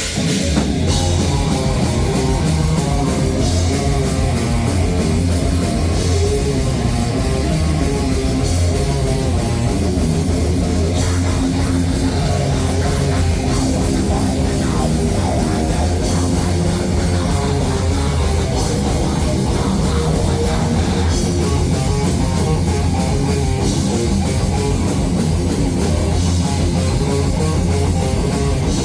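Rock band playing live: loud distorted electric guitars, bass guitar and a fast drum kit, continuous and dense throughout.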